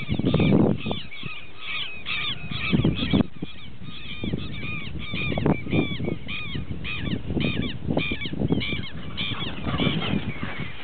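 A group of birds calling: many short, harsh, arching calls repeated and overlapping, with bursts of low rumble underneath.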